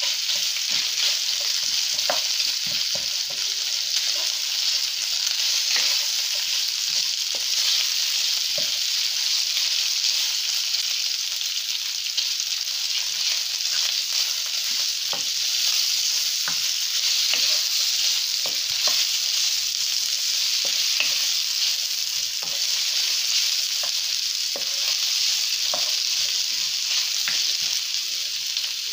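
Diced chicken and sliced onions sizzling in hot vegetable oil in a non-stick wok, a steady hiss, stirred with a wooden spatula that clicks and scrapes against the pan many times.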